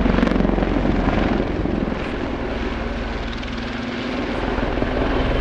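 Westland Lynx HAS3 helicopter flying a display: a fast, steady chop from the rotor blades over a low engine hum, easing a little in the middle and building again near the end.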